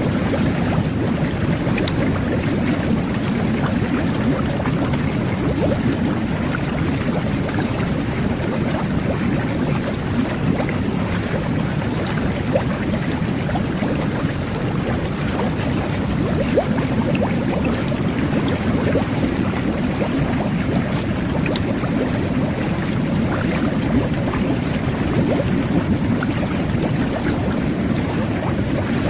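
Jet bath (whirlpool tub) jets churning the water: a steady, unbroken bubbling rush, deep and full in tone.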